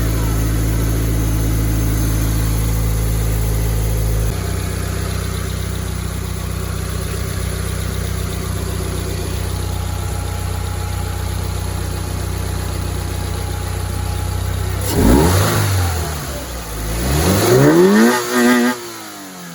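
Toyota GT-86's 2.0-litre flat-four boxer engine running with a freshly fitted Injen cold air intake. It idles, drops to a lower idle about four seconds in, then revs up and falls back twice near the end.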